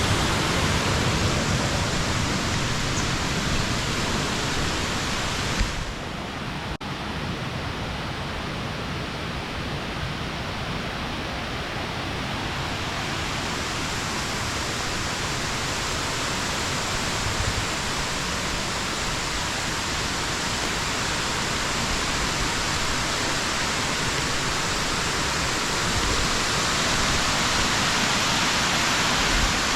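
Small waterfall rushing steadily into its pool. The rush drops suddenly about six seconds in and builds back over the next several seconds.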